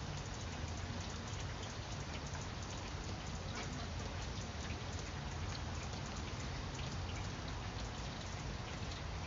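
Steady rain falling on broad vine leaves: a continuous hiss full of small, distinct drop taps, with a low steady rumble underneath.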